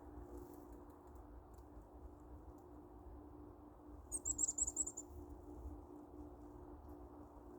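A chickadee gives a rapid, very high-pitched chittering call of about ten quick notes, about four seconds in and lasting under a second, over a faint steady low hum.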